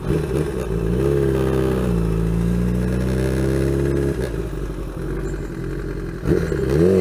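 Kawasaki Ninja ZX-10R's inline-four engine under way: its pitch climbs in the first second and holds steady, drops about four seconds in, then climbs again near the end.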